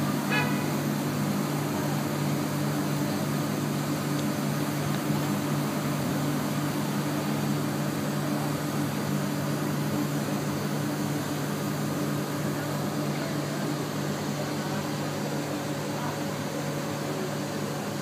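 Electric commuter train humming steadily from below, a constant low drone over a wash of noise that slowly gets fainter.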